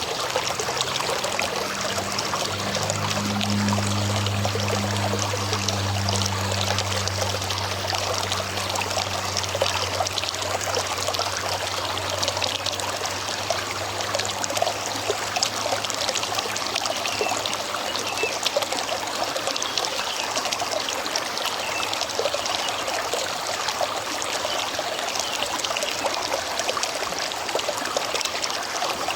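River water running over rocks: a steady trickling rush full of small splashes. A low hum sits underneath through the first half and fades away.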